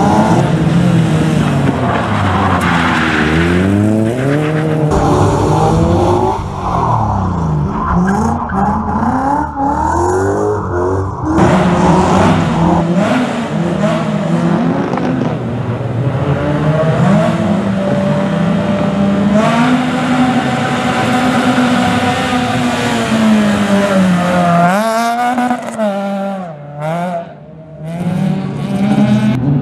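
Rally car engines revving hard on a circuit, the pitch climbing and dropping again and again through gear changes and throttle lifts. Near the end the sound dips briefly before picking up again.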